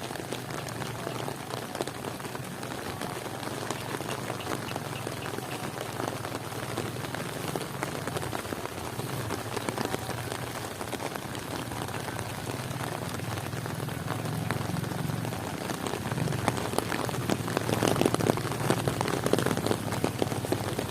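Heavy rain falling steadily, a dense patter of drops that grows louder and thicker in the last few seconds.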